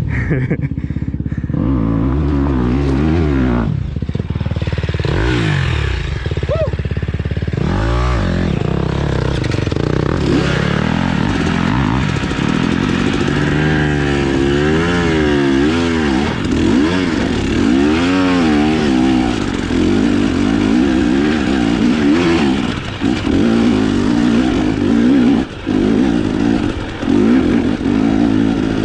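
Dirt bike engine running under varying throttle, its pitch rising and falling again and again as it is revved and eased off, with a few sharp knocks as the bike goes over rough ground.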